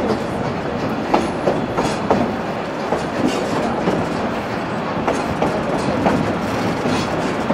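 Durango & Silverton narrow-gauge passenger train rolling along, a steady rumble with irregular clacks of the wheels over the rail joints.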